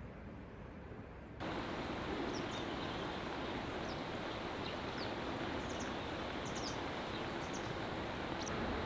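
Steady rush of a stream flowing, cutting in abruptly about a second and a half in, with short, high bird chirps scattered over it.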